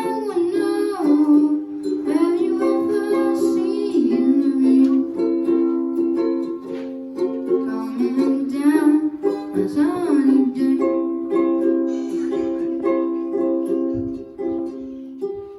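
Ukulele strummed in steady chords, with a voice singing over it for most of the first ten seconds. The strumming then carries on alone, and the playing sounds close up in a small room.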